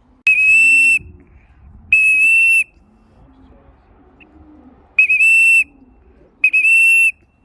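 A whistle blown in four short, loud, high-pitched blasts of a steady tone, each well under a second, with gaps of one to three seconds between them. It is the kind of whistle a pigeon fancier uses to call returning racing pigeons down into the loft.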